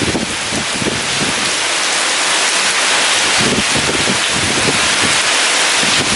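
Heavy rain in a strong wind: a steady, dense hiss of rain with irregular low gusts of wind.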